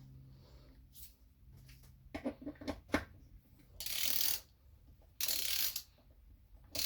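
A torque wrench's ratchet being worked on a transmission valve body bolt: a few separate clicks about two seconds in, then two short runs of fast ratcheting.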